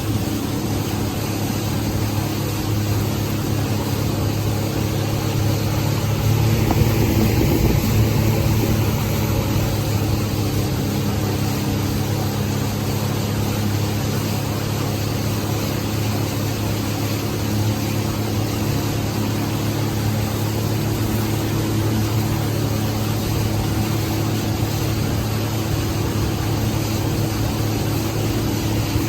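Personal watercraft (jet ski) engine running at a steady speed, a steady low drone with a wash of water noise, slightly louder about seven seconds in.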